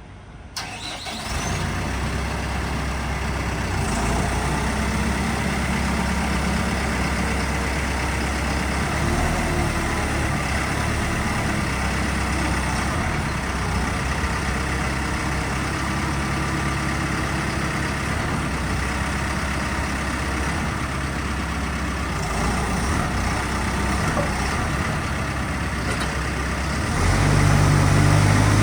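Caterpillar TL1055 telehandler's diesel engine starting about a second in, then running steadily at idle, and getting louder near the end as the revs come up.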